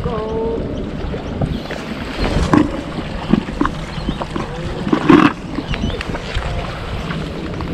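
Wind buffeting the microphone over water moving at the sea shore. Near the start a short call falls in pitch, and there are brief louder knocks or splashes about two and a half and five seconds in.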